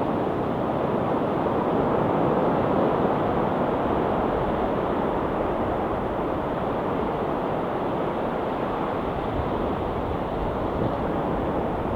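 Ocean waves washing on a rocky shore: a steady rushing of surf that swells a little a few seconds in, then eases.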